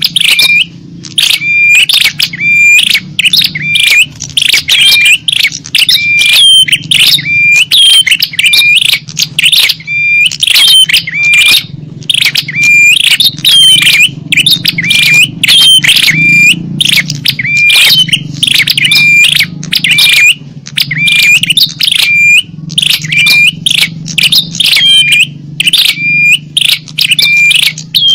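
Small songbirds' chirping lure calls, short sharp chirps repeated rapidly and continuously, loud and dense, as used to lure small wild birds.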